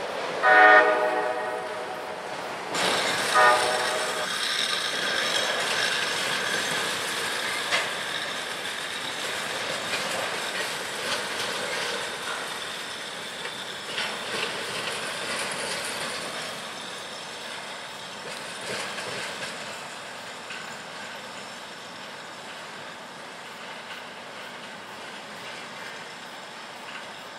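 A freight locomotive's air horn sounds two blasts near the start, a louder one and then a second about two seconds later. The steady rolling noise of passing freight cars follows, autoracks and then covered hoppers, with scattered clicks of wheels over the rail. It slowly fades in the second half.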